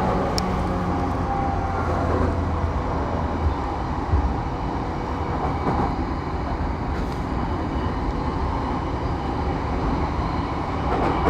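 JR East Saikyo Line commuter train running between stations, heard from inside the car: a steady rumble of wheels on rail with a low mechanical hum.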